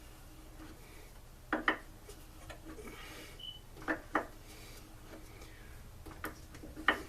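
Hand tools clinking and clicking against metal in small pairs of knocks, a few times, while working at the blower's muffler screws, which are seized, heat-welded in place.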